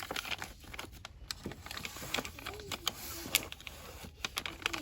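Fast, irregular crinkling and tapping of cosmetic and soap packaging handled by hand, with faint voices of shoppers in the background.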